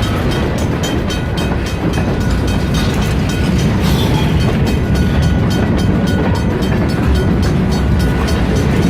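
Kiamichi Railroad freight train rolling past: a loud, steady rumble of wheels on rail with rapid, regular clicking.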